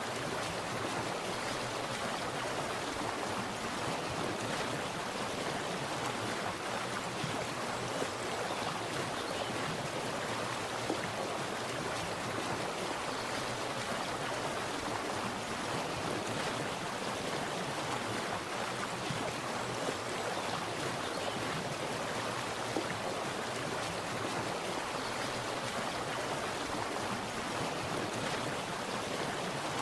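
Water splashing and rushing, a steady continuous spatter with no pauses or changes.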